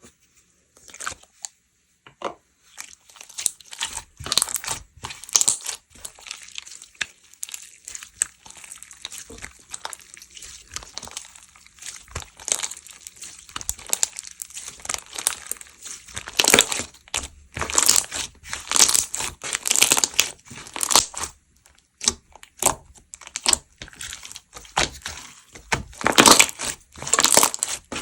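Slime being squeezed, stretched and folded by hand, giving off irregular crackling, crinkling noises. The crackles come in loud clusters, thickest in the second half.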